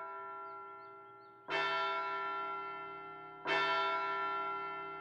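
A large bell tolling slowly, struck about once every two seconds, with each stroke ringing on and fading before the next.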